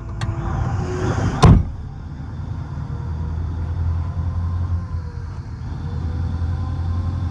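Mining dump truck's engine running with a steady low hum, and one loud, sharp bang about a second and a half in.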